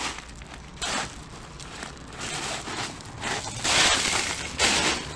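Footsteps crunching and scraping over rubble and construction debris, in uneven bursts, loudest a little under four seconds in.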